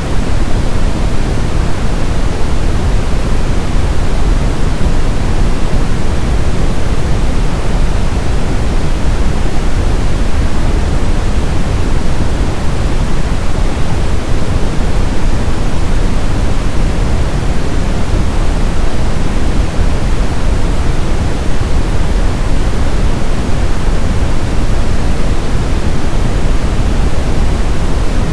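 Brown noise: a steady, deep hiss with its weight in the low end, even and unchanging.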